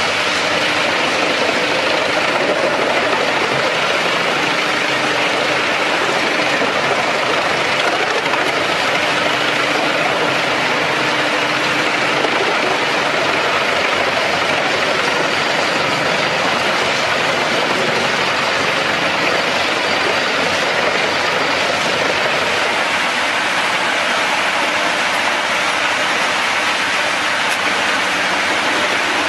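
Wood chipper running steadily: engine noise mixed with a dense, even rushing noise, with no break.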